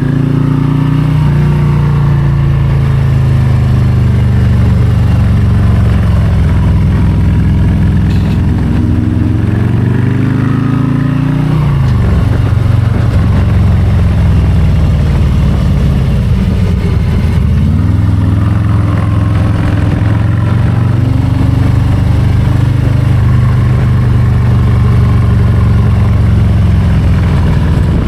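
Harley-Davidson Low Rider ST's Milwaukee-Eight 117 V-twin running under way. Its pitch climbs for about ten seconds, drops sharply about twelve seconds in, dips again a few seconds later, then pulls back up and holds.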